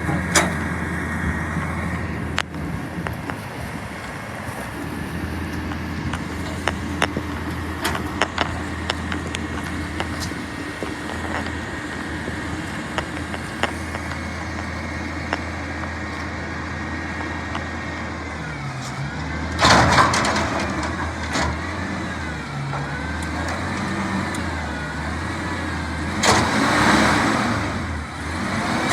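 Garbage truck engine running steadily, with scattered knocks and clanks. Two loud bursts of noise, one about two-thirds in and one near the end.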